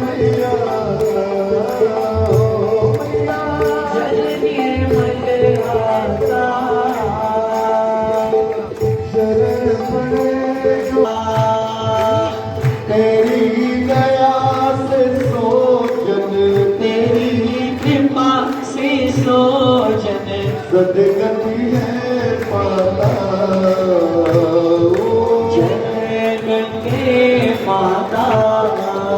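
Hindu devotional aarti hymn: voices singing over a steady held note, with drum percussion beating along.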